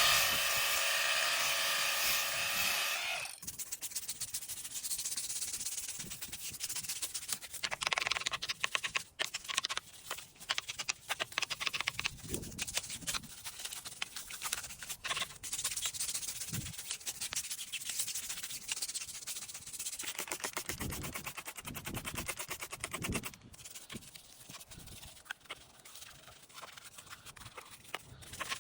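Scrubbing with a brush in quick, repeated strokes, after a steady whine in the first three seconds.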